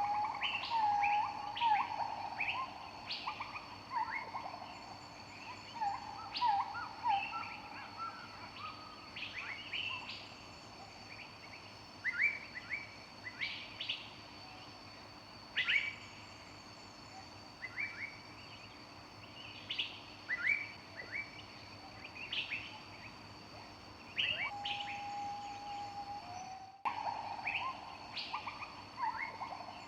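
Several wild birds singing in a forest chorus: a steady stream of short, high chirps and calls, with lower whistled phrases at the start and again near the end.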